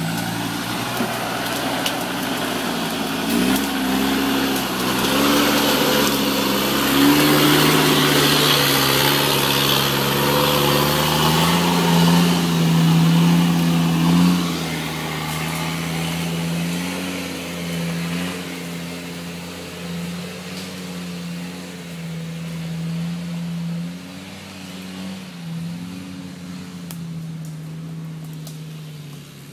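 Land Rover Defender off-road 4x4's engine working under load on a muddy trail, its revs stepping up and down as the driver feeds the throttle. It is loudest in the middle, then fades away.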